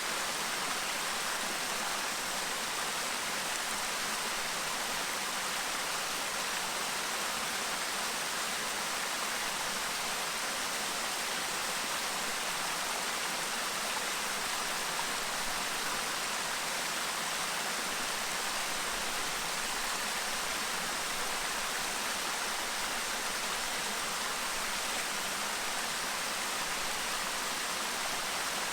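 Clear mountain stream babbling over rocks, a steady, even rush of water with no change in level.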